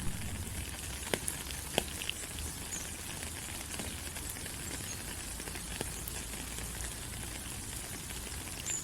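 Steady rain falling on rainforest leaves, an even hiss, with a few sharp close drops striking about one and two seconds in.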